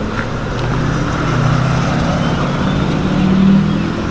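An engine running steadily, its low hum swelling to its loudest about three and a half seconds in.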